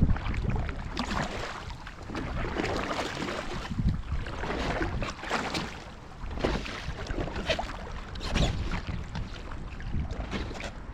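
Paddle strokes splashing in lake water, about one a second and uneven, from a one-person raft. Wind buffets the microphone with a steady low rumble.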